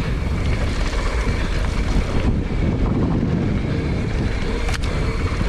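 Wind buffeting the microphone over the steady rumble of a 29er mountain bike rolling fast down a dirt trail, with one sharp click near the end.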